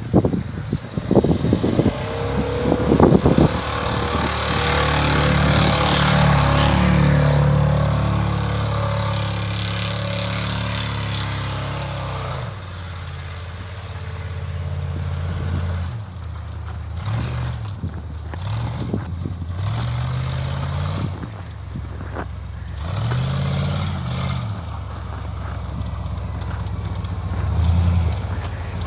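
Pickup truck engine revving hard as the truck spins on bald tires in snow. A strong rushing noise over the engine builds and then fades in the first half, followed by several short revs that rise and fall in pitch.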